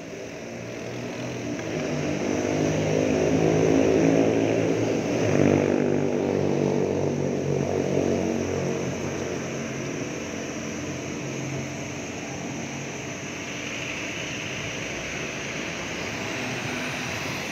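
A passing engine's steady drone. It swells to its loudest about four seconds in, then fades slowly.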